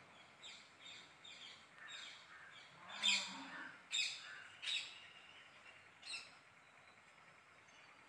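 Faint bird chirps: a string of short high calls, with a few louder quick downward-sweeping notes around the middle, dying away after about six seconds.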